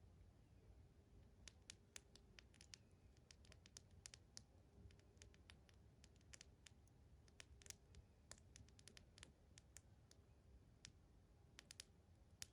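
Wood fire in a fireplace crackling faintly, with irregular sharp pops and ticks that come thicker in places and cluster near the end.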